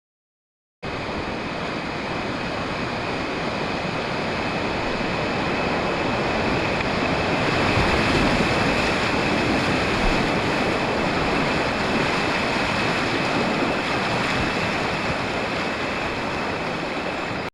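River water rushing steadily, a little louder in the middle, starting abruptly about a second in and cutting off at the end.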